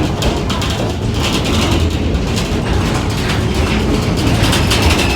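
Passenger train car rolling along the track: a steady rumble with a run of rail clicks and rattles.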